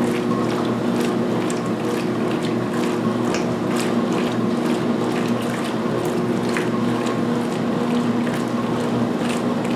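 2016 Speed Queen top-load washer agitating at high speed in its pre-wash, water and towels in the tub: a steady motor and gear-drive hum with irregular clicks and water sloshing.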